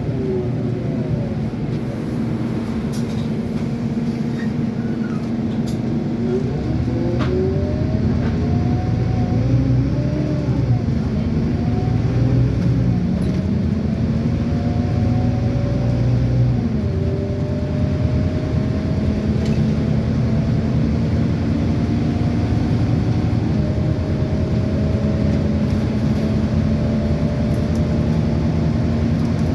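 Scania N230UD double-decker bus running and accelerating, heard from on board. Its engine and drivetrain whine climbs in pitch, drops back twice as it changes gear, and keeps rising through the second half.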